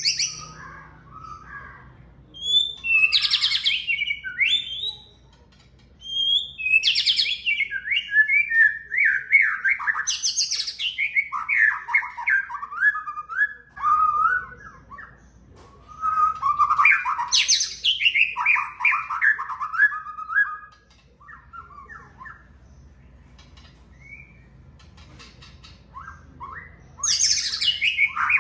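White-rumped shama singing in full song: loud, varied phrases of whistles and fast chattering notes, each phrase starting high and tumbling downward. The song comes in bursts a few seconds long with short pauses between them, then a longer lull before a final burst near the end.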